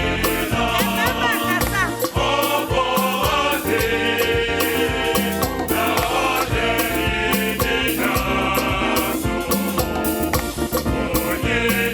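Gospel choir singing in harmony over a band accompaniment with a steady percussion beat.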